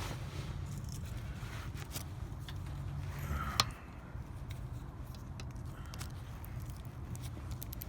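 Hand tools and metal brake parts being handled: scattered small clicks and scrapes, with one sharp clink about three and a half seconds in, over a steady low hum.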